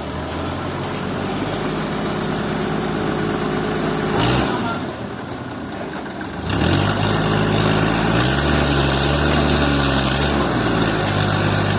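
An engine running steadily. It drops away about four seconds in, picks up again about two seconds later, and runs faster for a couple of seconds before settling back.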